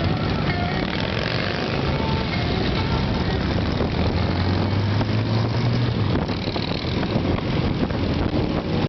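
Motorcycle engines running as a group of bikes moves off, with a steady low drone that swells for a couple of seconds about four seconds in. Music is faintly mixed underneath.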